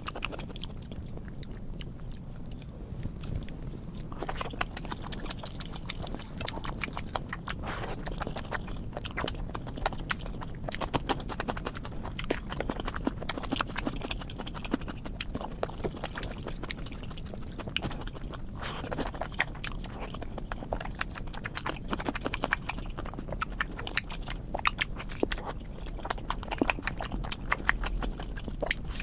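Close-miked eating sounds: a person chewing and biting into food, with wet, irregular clicks and smacks throughout.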